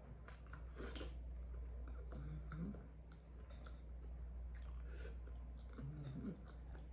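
Close-miked chewing of a shrimp boil, with wet mouth sounds and small crackles, and twice a short hummed "mm" from the eater.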